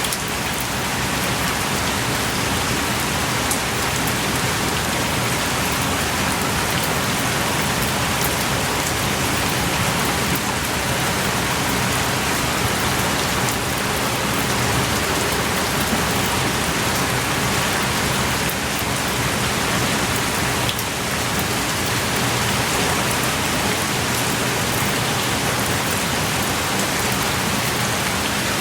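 Steady, heavy rain pouring down, with scattered individual drops ticking.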